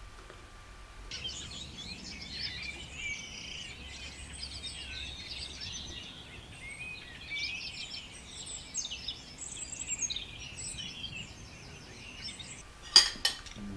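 Birds singing, a busy chorus of quick chirps and trills that starts abruptly about a second in and stops just as abruptly near the end. A couple of sharp clinks of a spoon against a bowl follow right at the end.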